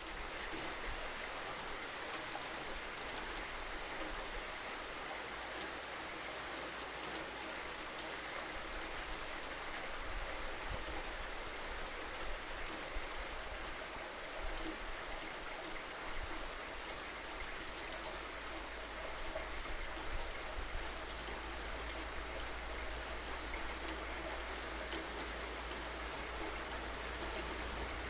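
Steady rainfall, an even hiss of drops on surfaces, over a low steady rumble.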